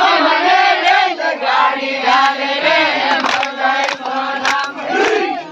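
A group of voices singing a garba song together in loud, chant-like unison, with a few sharp claps or knocks scattered through it.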